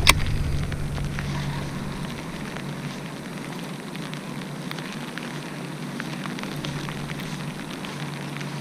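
Pouring rain: a steady hiss with scattered close drops ticking. A single sharp click comes right at the start.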